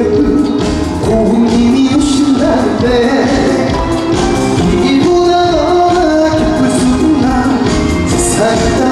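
Live song with a singer over amplified band music, loud and continuous with a steady beat.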